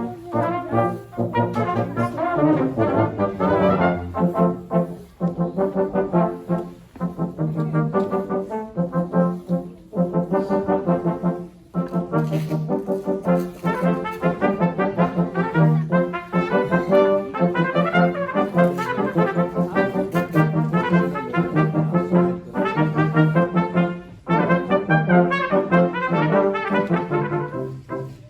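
Brass quartet playing a busy passage of many short, detached notes over a steady low line, with a few brief breaks between phrases.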